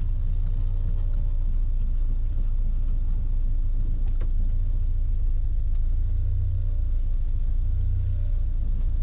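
Mazda B-series pickup truck driving, heard from inside the cab: a steady low engine and road rumble. A single sharp click about four seconds in.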